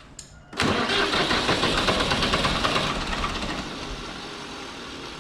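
Farm tractor engine being turned over to start, coming in suddenly about half a second in with a loud clattering rattle that eases to a steadier, quieter run after about three seconds. It is a hard start: the engine will only catch with the throttle given all the fuel it wants.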